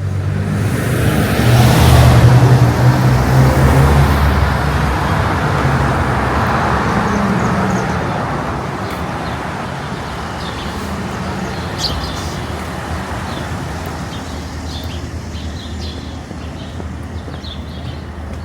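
A motor vehicle's engine passes close by, loudest about two seconds in and fading away over the next several seconds, leaving quieter city street traffic noise.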